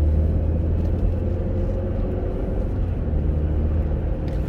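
Steady low rumble of engine and road noise heard inside a Chevrolet Captiva's cabin while it is driving, with a faint steady hum above it.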